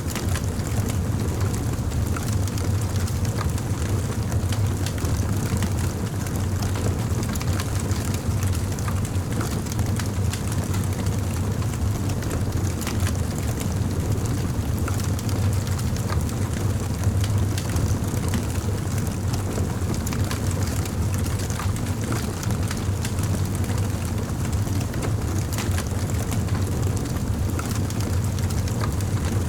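Campfire burning with a steady low rumble and scattered crackles and pops from the burning wood.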